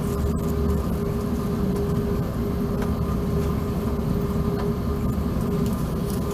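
Steady cabin noise of an Airbus A380 taxiing after landing: a low rumble with a constant hum running through it.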